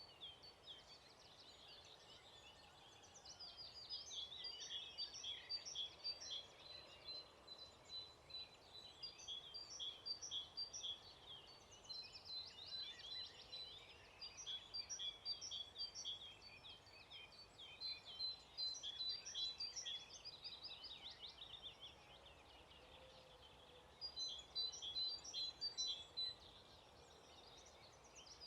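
Songbirds singing in phrases of rapid, repeated high notes several seconds long, broken by short pauses, over a faint steady outdoor hiss.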